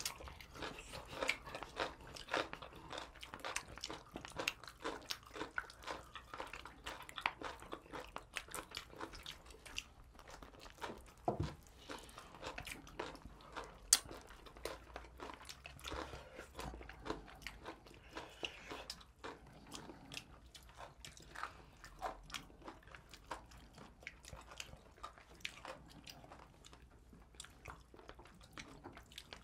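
Close-up chewing and biting of buffalo chicken wings: many small wet clicks and crunches from mouths at work.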